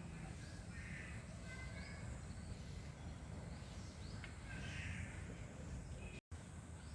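Faint outdoor ambience with birds calling: several short high chirps and a couple of hoarse, caw-like calls over a steady low rumble. The sound drops out completely for an instant near the end.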